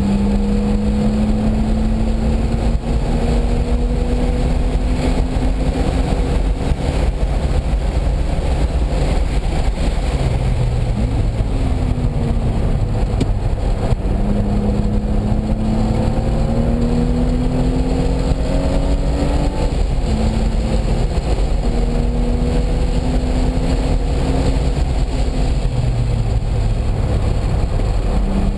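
Car engine under load while lapping a racetrack. The pitch climbs slowly for several seconds at a time and drops several times as the car slows or shifts, over a constant heavy low rumble.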